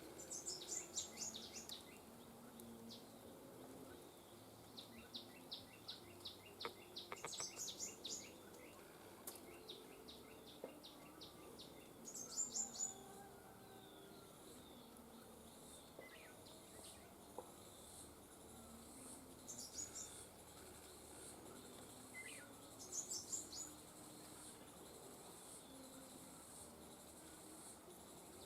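Faint outdoor ambience: short bursts of high-pitched bird chirps every few seconds, over runs of quick, even insect ticking.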